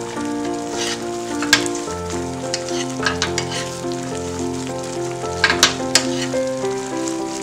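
Shrimp and tofu sizzling and bubbling in sauce in a hot pan, with a spoon stirring through it that gives several short scrapes and knocks against the pan. Soft background music with held, changing notes plays underneath.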